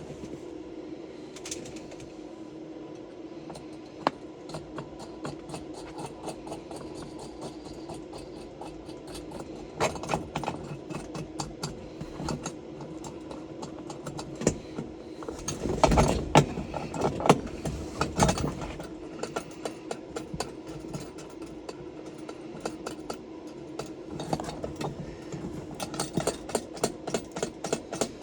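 Hand work on car wiring and parts: scattered clicks, taps and rustling over a steady low hum, with a louder bout of handling about halfway through and a quick, even run of clicks near the end.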